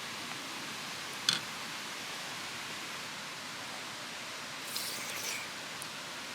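Steady rushing of a mountain valley stream. A single sharp click comes about a second in, and a brief rustle a little before the end.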